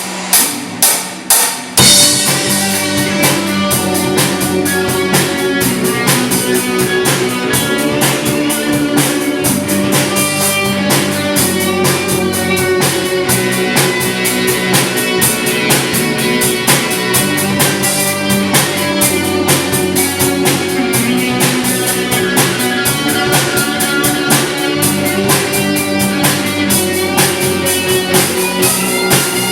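A live band playing an instrumental passage on drum kit and guitar. Several separate drum hits open it, then the full band comes in about two seconds in and plays on with a steady beat.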